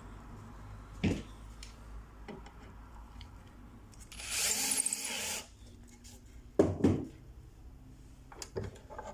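A power drill runs once for about a second while scrap wood pieces are fastened into a birdhouse wall. Several sharp wooden knocks from the pieces being handled come before and after it.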